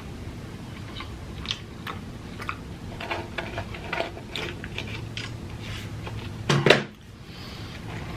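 A person chewing food close to the microphone, with many short wet mouth clicks. About six and a half seconds in comes one brief, louder mouth or throat sound.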